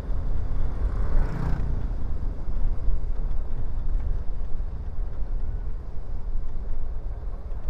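Steady low rumble of a motorcycle ride, with wind buffeting the microphone.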